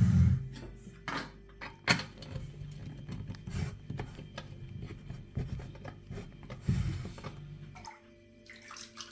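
Water being poured into a container, with a few sharp knocks and clinks of handling.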